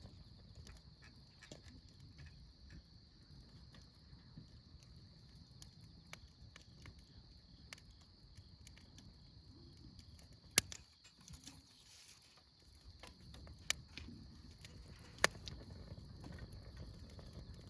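Insects, crickets, trilling steadily and high-pitched over a low outdoor rumble, with three sharp clicks in the second half.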